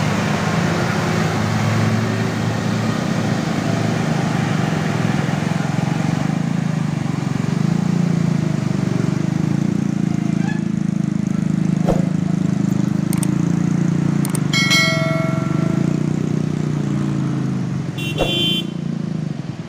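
Heavy truck engine running steadily on a steep uphill climb, with a short horn toot about fifteen seconds in and a brief high squeal near the end.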